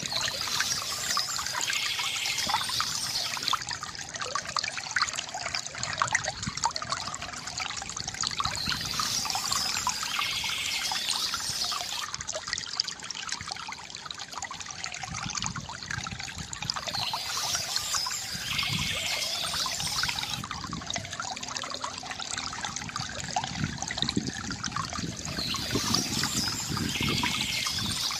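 Water from a bamboo fountain trickling and splashing steadily, with many small drips and gurgles. A brighter hiss swells and fades about every eight seconds.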